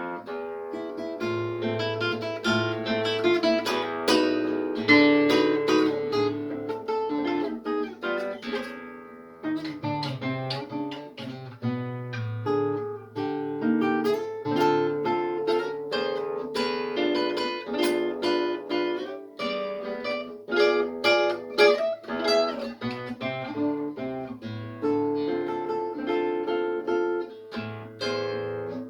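Solo acoustic guitar playing an instrumental arrangement, fingerpicked melody over bass notes with some strummed chords.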